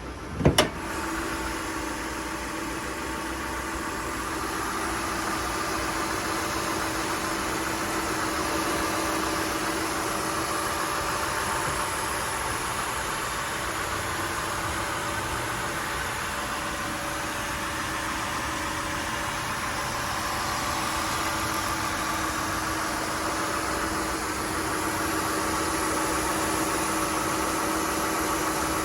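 Honda Accord engine started cold, catching with a brief loud burst about half a second in, then idling steadily with a constant hum.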